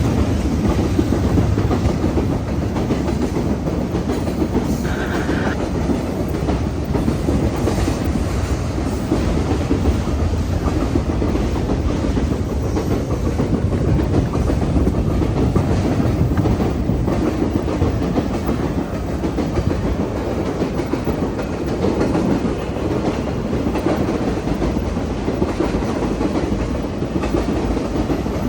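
Train rolling past at trackside: a steady rumble of railcar wheels with clickety-clack over the rail joints, going on without a break.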